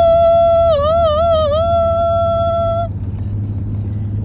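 A voice holding one long sung note, steady in pitch with a brief wavering in the middle, that stops about three seconds in. A steady low hum runs underneath.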